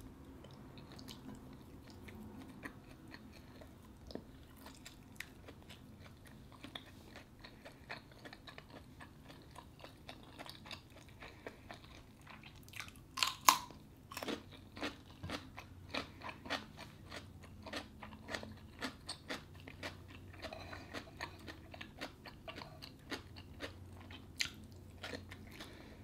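Mouth sounds of eating: faint chewing and small wet clicks, with a louder crisp crunch about halfway through as a whole English cucumber is bitten, then crunchy chewing.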